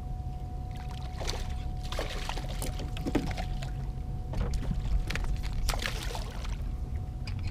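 Water splashing and lapping around a small fishing boat, in irregular short splashes over a steady low rumble and a faint steady tone.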